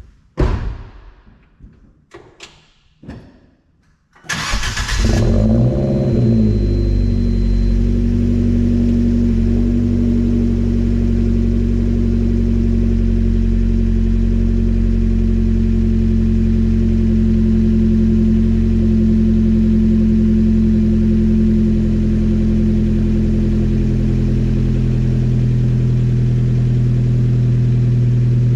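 A few clicks and knocks, then about four seconds in the 2017 Fiat 124 Spider's 1.4-litre turbocharged four-cylinder cranks briefly and catches on a cold start, the revs flaring up and falling back. It then settles into a steady cold idle through an aftermarket exhaust.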